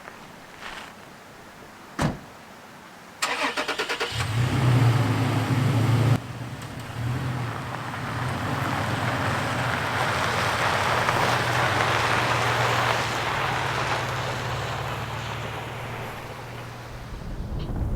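Toyota Tacoma pickup starting and pulling away. There is a single thump about two seconds in, then the starter cranks briefly. The engine catches with a short rev, settles to a steady low run, and a broad road and tyre noise builds as the truck drives off.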